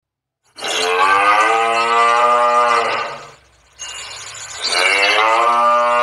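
Cow mooing: two long, drawn-out moos, the second starting a little under four seconds in.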